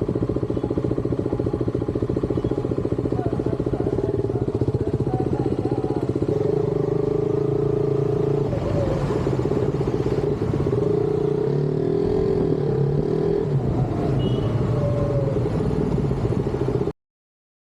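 Motorcycle engine running steadily on the move, its pitch shifting a little in the middle as the speed changes; the sound cuts off suddenly near the end.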